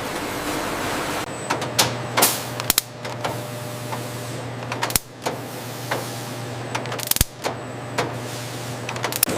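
Processing-line machinery running: an even rushing noise for about the first second, then a steady low hum broken by irregular sharp clicks and clanks.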